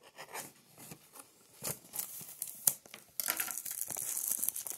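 Plastic wrapping crinkling and tearing as a box of baseball card packs is opened by hand. Scattered light clicks and taps come first, and about three seconds in it becomes a steady crinkling rustle.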